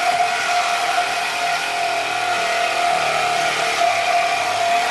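Electric power saw running steadily as it cuts into a steel exhaust pipe, a constant high whine over a dense metallic hiss.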